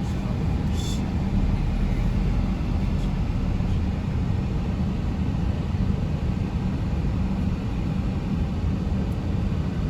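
Steady low rumble of a car's engine and tyres on the road, heard from inside the moving car, with one brief high tick about a second in.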